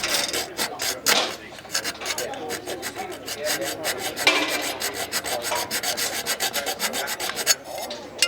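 Hand file rasping in quick repeated strokes on the edge of a Bristol Olympus 301 compressor blade, dressing out nicks left by ingested stones (foreign object damage).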